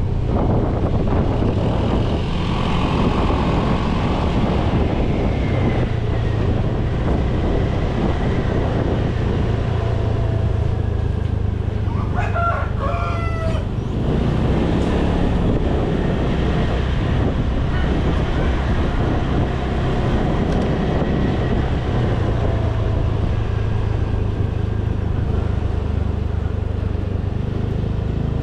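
A motorcycle engine runs steadily underneath road and wind noise while riding. A rooster crows once, about twelve seconds in.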